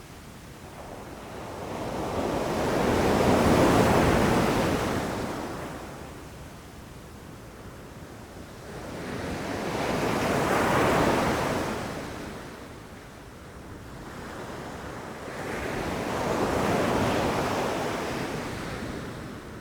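Sea waves breaking on a beach and washing back. Three slow swells of surf, each rising and fading over several seconds.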